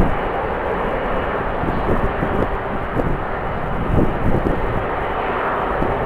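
Steady engine noise from a jet airliner, with gusts of strong wind buffeting the microphone in low thumps now and then.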